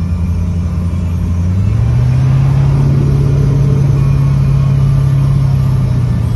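1986 Corvette's 5.7-litre V8 idling, heard from inside the cabin with the air conditioning running. About two seconds in, the engine speed rises a little and holds there, then settles back near the end.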